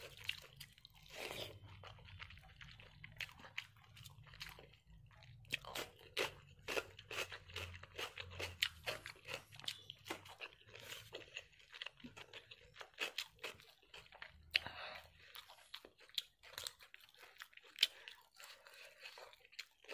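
Close-miked eating by hand: chewing and wet mouth clicks, with sharp irregular smacks as a mouthful of rice and mutton liver curry is eaten. A low steady hum runs underneath and stops near the end.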